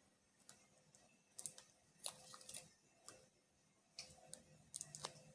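Faint, scattered clicks and light taps of takeout food being handled, with sauce packets and a plastic utensil worked over rice in a takeout container.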